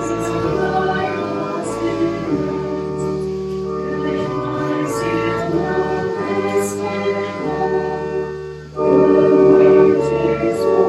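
Church choir singing a hymn in held chords that change every second or so; the singing breaks off briefly about nine seconds in, then the next phrase comes in louder.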